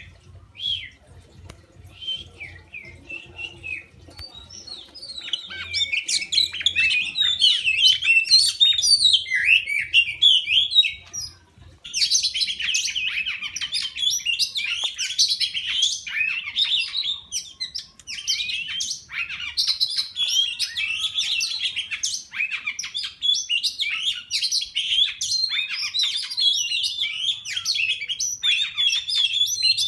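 Oriental magpie-robins (kacer) chirping in quick, high, overlapping calls. The chirping is softer for the first few seconds, breaks off briefly just before the halfway point, then resumes louder and denser.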